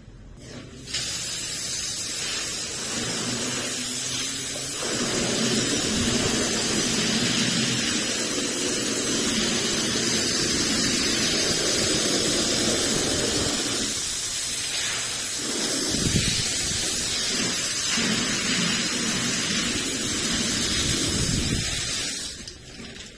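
A jet of water spraying onto a rug: a loud, steady hiss that starts about a second in and cuts off near the end, its lower splashing sound changing as the spray moves across the pile.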